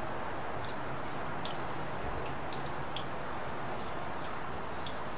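Steady rain, a constant hiss with scattered sharp ticks of single drops landing close by at irregular moments.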